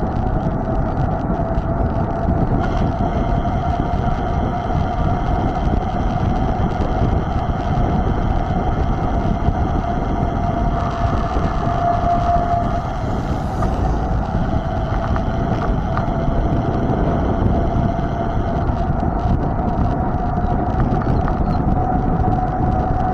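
Mountain bike rolling at speed: wind rumbling on the microphone, with a steady hum whose pitch drifts slightly.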